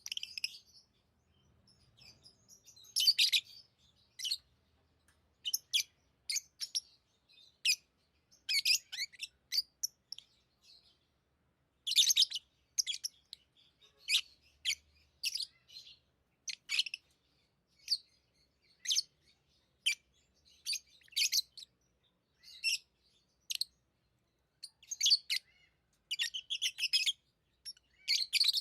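Pet lovebirds chirping: short, high chirps at irregular intervals, some bunched into quick clusters, with short quiet gaps between.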